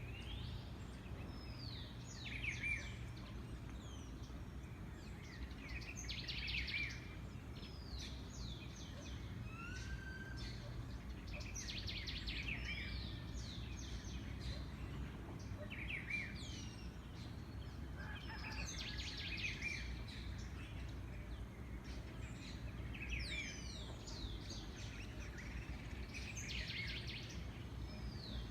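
Songbirds singing outdoors, with phrases of quick falling whistled notes repeating about every three to four seconds over a steady low background rumble.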